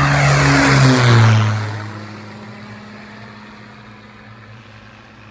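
Maule M5-235 single-engine propeller plane passing by: its engine pitch drops about a second in as it goes past, then it fades away to a faint drone.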